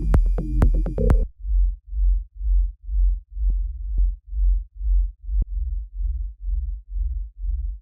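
Electronic track played back while being produced: a deep kick and sub-bass thump about twice a second, with a short synth chord stab in the first second and a few sharp clicks in the middle.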